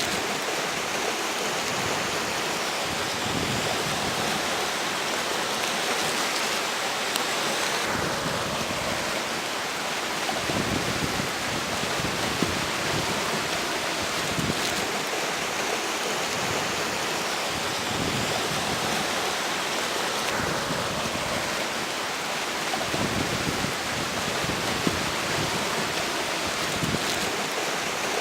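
River flowing in a steady rush, with strong wind gusting and buffeting the microphone now and then in low rumbles.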